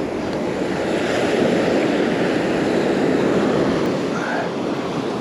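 Gulf surf washing onto the beach, a steady rushing that swells for a couple of seconds, with wind buffeting the microphone.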